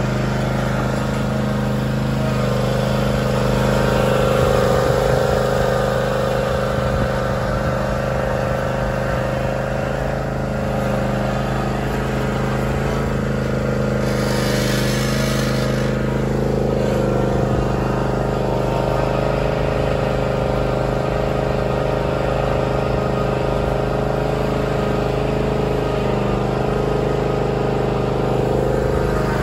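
John Deere Z320R zero-turn mower's engine running at a steady speed, with a brief hiss about halfway through.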